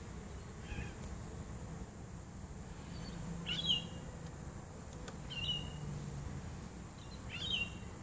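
A bird gives a short call four times, about every two seconds, the first one faint, over the low hum of honey bees flying at the swarm trap's entrance.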